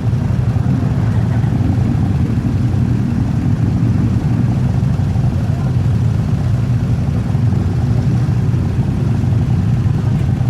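Motorcycle engines running steadily in a group ride, a continuous low rumble.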